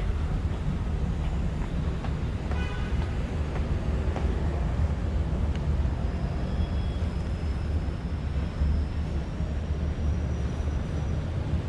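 Star Ferry's engine running with a steady low drone, heard aboard the vessel.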